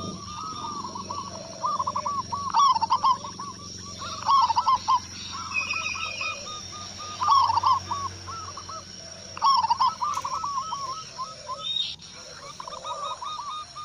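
Zebra doves (perkutut) cooing: phrases of quick, arched coo notes repeated in runs every few seconds, with several calls overlapping. A brief higher chirp comes about halfway through.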